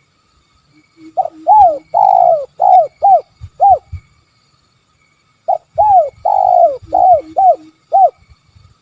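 Spotted dove (tekukur) cooing: two phrases of about six short arched coo notes each, the second starting about a second and a half after the first ends.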